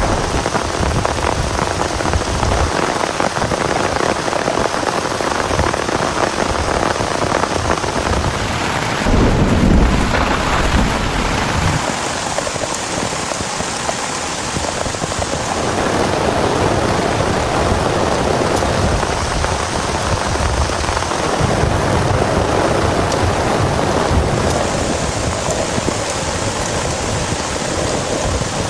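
Heavy rain falling steadily, with a low rumble of thunder about nine seconds in that is the loudest moment.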